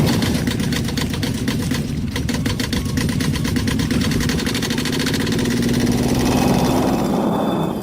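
Small engine, likely the DIY mini tractor's, running steadily with a rapid, even ticking over its hum.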